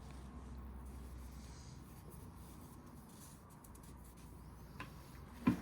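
Faint scraping and handling of metal engine parts as a classic Mini engine is stripped, over a low steady hum, with a small click and then two sharp knocks near the end.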